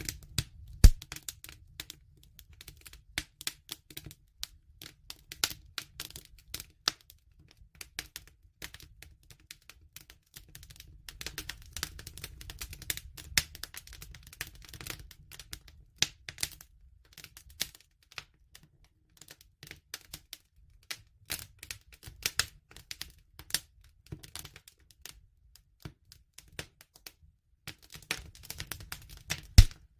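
Campfire crackling: irregular sharp pops and snaps over a low, steady rumble of burning wood, with a loud pop about a second in and another near the end.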